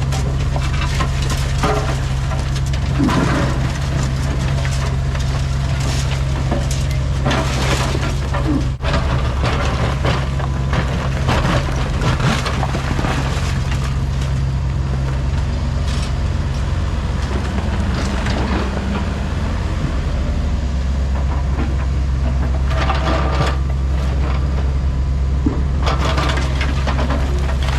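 Heavy diesel equipment engine running steadily under work, with irregular clatter and crunching of broken debris.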